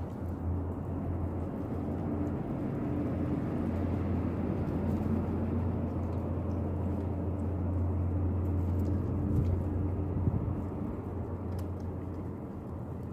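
Steady low engine rumble of a motor vehicle, swelling slightly toward the middle and easing near the end, with a few faint clicks over it.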